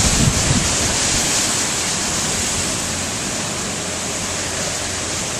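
Hurricane wind rushing steadily with a loud, even hiss. Low buffeting of the microphone in the first moment eases off.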